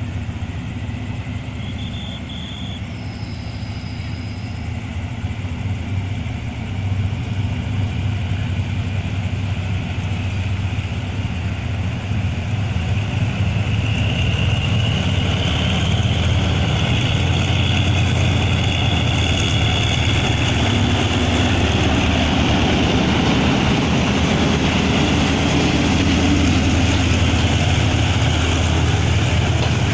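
Diesel train engine running with a deep rumble, growing louder over the first half and then holding steady.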